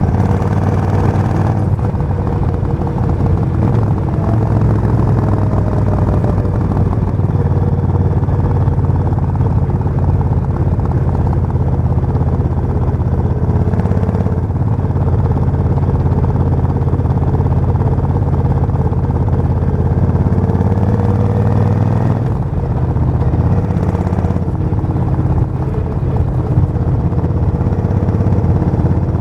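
Suzuki VS1400 Intruder's 1360 cc V-twin motorcycle engine running loud and steady, its pitch stepping up and down a few times.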